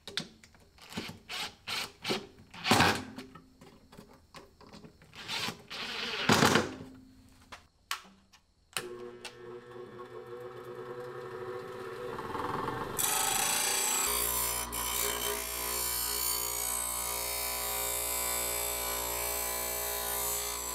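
Hand tool work on a workpiece, a series of separate strokes with two louder ones, then a small electric power tool starts and runs steadily, getting louder and brighter after a few seconds.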